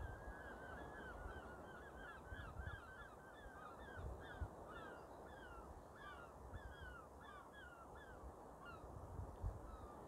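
A bird calling in a long, quick series of short falling notes, a few each second, stopping about nine seconds in, over a low rumble.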